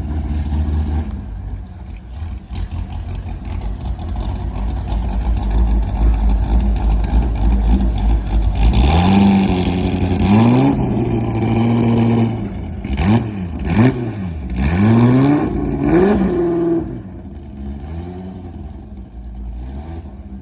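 A car engine runs low and steady, then from about nine seconds in is revved several times, its pitch climbing and dropping in quick blips, before easing off near the end.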